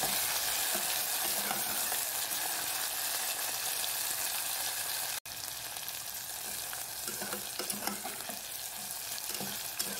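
Chopped onion frying in hot oil in a metal pot, a steady sizzling hiss, while a spatula stirs it and scrapes the pot now and then, more often in the second half. The sizzle drops out for an instant about five seconds in.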